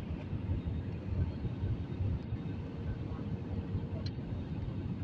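Steady low rumble of an airliner's engines and airflow heard inside the passenger cabin, with a faint steady hum above it.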